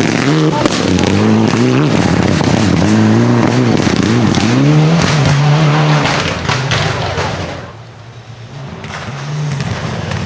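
Rally car engine revving hard, its pitch rising and falling repeatedly through the gears, with sharp crackles from the exhaust. It fades about three-quarters of the way through, then picks up again.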